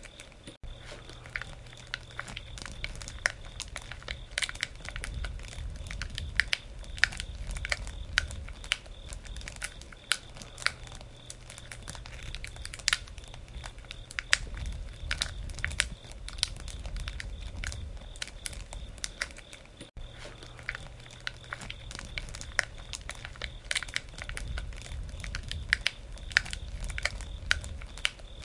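Campfire burning: wood crackling with frequent, irregular sharp pops over a low rumble of flame.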